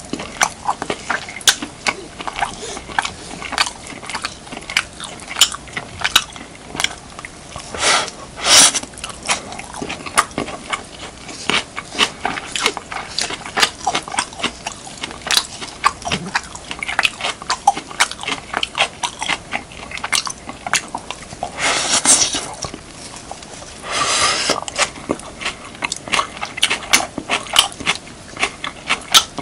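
Close-miked eating of beef, kimchi and rice: wet chewing and crunching with many small sharp clicks, and a few louder longer bites or slurps around 8 seconds in, and again around 22 and 24 seconds.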